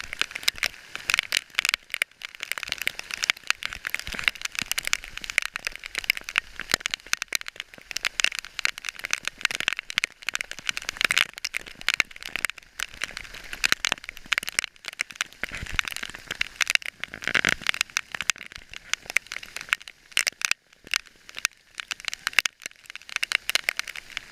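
Heavy rain falling, a dense irregular patter of drops hitting a hard surface close by.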